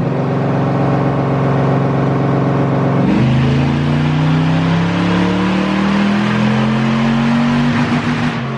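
Supercharged Toyota truck engine making a full-throttle chassis-dyno pull. The engine note holds steady, drops sharply about three seconds in, then climbs slowly in pitch and falls away as the throttle closes near the end.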